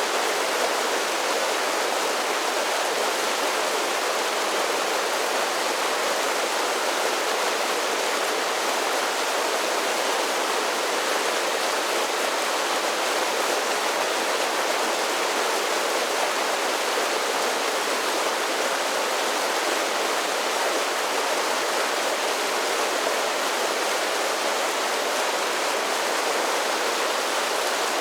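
Mountain creek cascading over a series of small waterfalls: a steady, even rush of falling water with no change.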